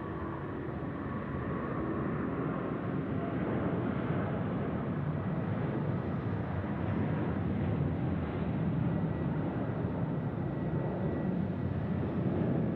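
Airbus A380's four jet engines at takeoff power during its departure roll: a steady, deep rumbling noise that grows slowly louder.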